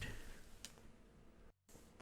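Near silence: faint room tone with a single soft click about two-thirds of a second in.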